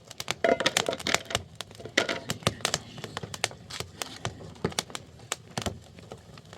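A rapid, irregular run of sharp clicks and light knocks, as of small hard objects being handled or tapped.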